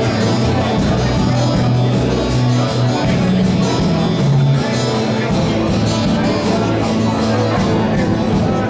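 Worship band playing live, with held bass notes, guitar and a steady cymbal beat.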